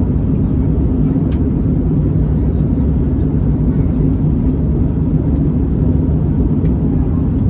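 Steady cabin drone of an Airbus A321neo in flight, from its Pratt & Whitney PW1100G geared turbofan engines and the airflow over the fuselage, heavy in the low end. Two faint clicks sound, about a second in and near the end.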